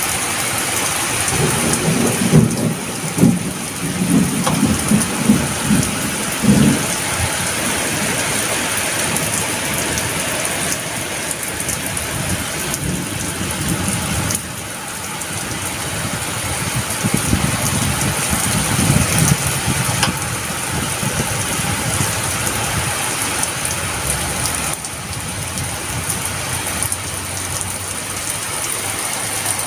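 Heavy rain pouring steadily, with low rolling thunder rumbling in the first several seconds and again just past the middle.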